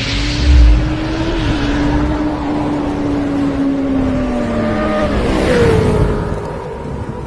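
Motor vehicle engine running, its note holding steady and then slowly dropping in pitch, with a shift in the note about five seconds in.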